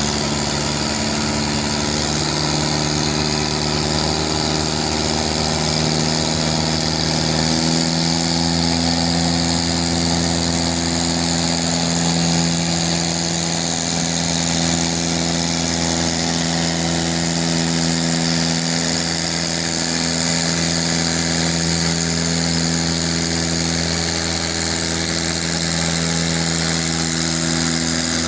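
Tractor engine running at a steady, nearly constant speed, its pitch shifting slightly about a quarter of the way in.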